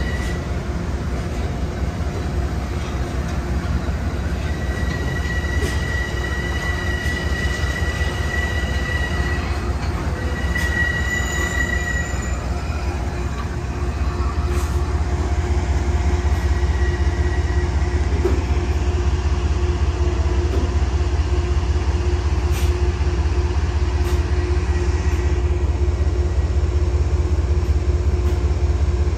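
Passenger train rolling through on steel rails, its wheels squealing twice in the first half. A steady low rumble runs underneath and grows louder about halfway through, with a few sharp clicks from the wheels over the track.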